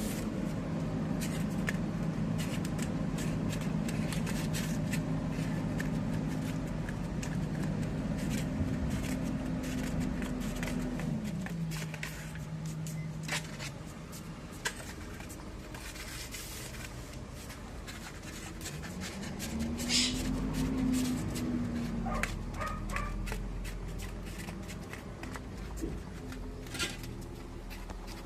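A dog licking and lapping at ice cream, with many short wet clicks and smacks, over a steady low hum from a motor or engine that drops in pitch about eleven seconds in and rises and falls again about twenty seconds in.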